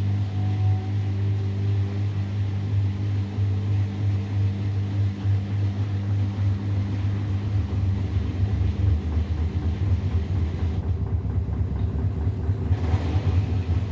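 Samsung WW70T4020EE front-loading washing machine spinning a load of clothes during its 1200 RPM spin cycle: a loud, steady low hum with motor tones. From about halfway it turns rougher and pulsing, with a brief rush of higher sound near the end.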